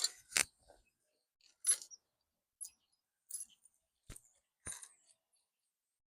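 Loose steel bolts and washers clinking as they are handled: about seven short, sharp metallic clicks spread irregularly, loudest at the start.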